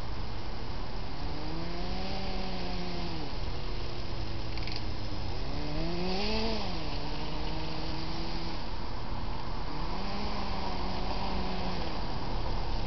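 Electric drive motors of a radio-controlled model snow groomer whining, the pitch rising and falling three times as the model speeds up and slows down, over a steady background noise.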